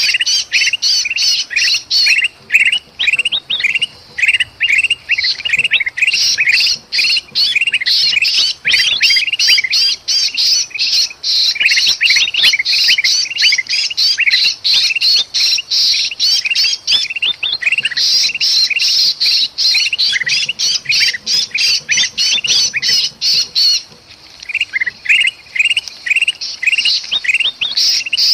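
Bulbuls (kutilang emas and kutilang) giving agitated, noisy distress calls, as from a bird caught and struggling: a dense, rapid chatter of short sharp squawks that hardly pauses, dropping off briefly twice. This is the kind of alarm racket used as a lure to draw other birds in.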